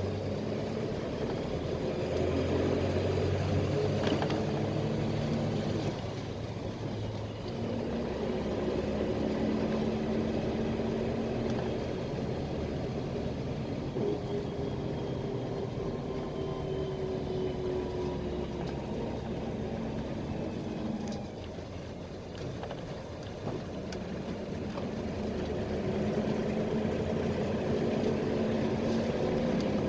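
Engine and road noise of a PAZ-320405-04 Vector Next bus under way, heard from inside the cabin. The engine note rises and drops several times as revs change, with short dips in level about six seconds in and again around twenty-one seconds.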